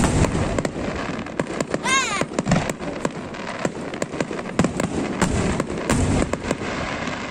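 Fireworks display: a rapid, continuous run of crackling pops and bangs, with deeper booms about two and a half and six seconds in. A short whistle rises and falls about two seconds in.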